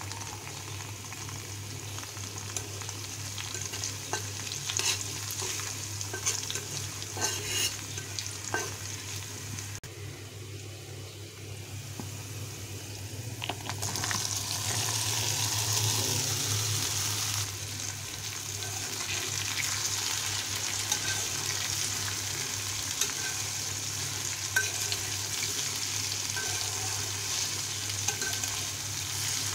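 Onion and dried red chillies sizzling in hot oil in a black pan, with a metal spatula scraping and clicking as turmeric is stirred in. About fourteen seconds in the sizzle grows louder as chopped okra goes into the oil, then carries on under the spatula stirring the okra.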